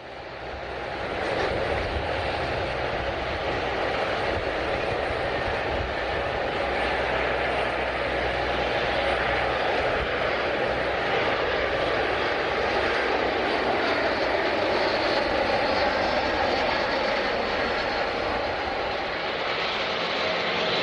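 Jet airliner engines running with a steady, loud, even noise that fades in over the first second or two.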